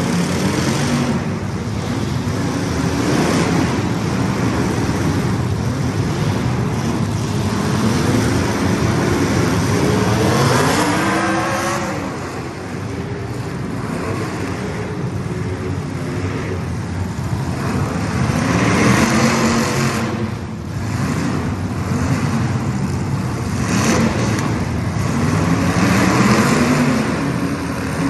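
Several small race car engines running hard around a short track, their pitch repeatedly climbing and falling as the cars accelerate down the straights and lift for the turns.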